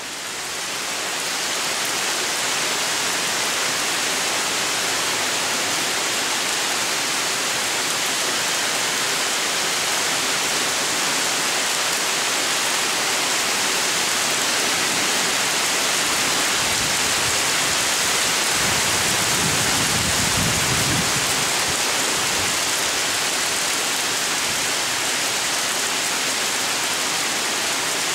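Heavy rain pouring steadily onto wet ground, pavement and standing water: an even, dense hiss that fades in at the start. A low rumble swells and dies away a little past the middle.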